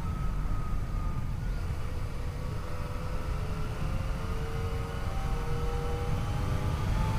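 Yamaha FJ-09's three-cylinder engine running under way, its pitch sinking slowly and then climbing again about two-thirds through as the bike speeds up, over a heavy wind rumble on the microphone.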